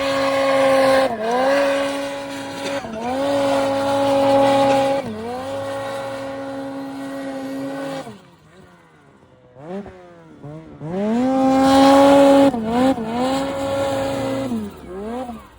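Ski-Doo snowmobile engine held at high revs under throttle, the pitch dipping as the throttle is let off and climbing straight back up, several times over. About eight seconds in it falls away to a low, quieter running for about three seconds before revving hard again.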